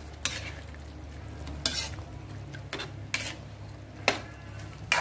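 Metal spatula stirring a thick stew in a metal pan, scraping and clinking against the pan about six times, over a low steady hum.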